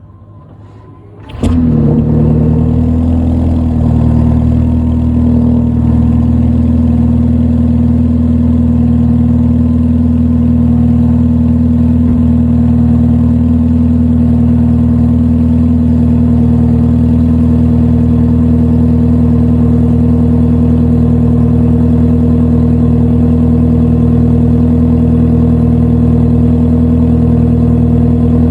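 BMW 330e's B48 2.0-litre turbocharged four-cylinder petrol engine cold-starting: it fires suddenly about a second and a half in, then runs at a steady idle.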